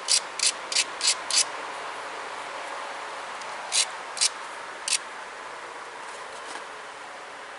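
Short, sharp scraping strokes of an abrader along the thin edge of a tiger chert point, grinding the edge. There are five quick strokes, then three more a couple of seconds later.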